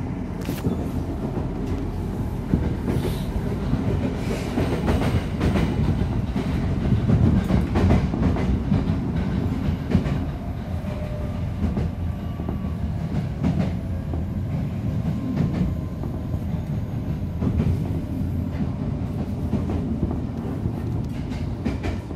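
Tokyo Metro 07 series electric train car (second batch, original pre-overhaul equipment) running on the line, heard from on board. There is a steady low rumble of wheels on rail, with frequent rail-joint clicks, swelling a little partway through. Faint steady motor tones come through for a few seconds in the middle.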